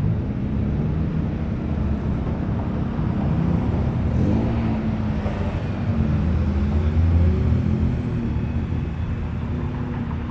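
Car engine and exhaust running at low speed, its pitch rising and falling several times over a steady low rumble, loudest just past the middle.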